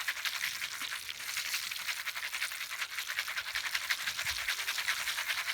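Popcorn kernels rattling and sizzling in a lidded pan shaken over the heat, a dense scratchy crackle that stops abruptly at the end.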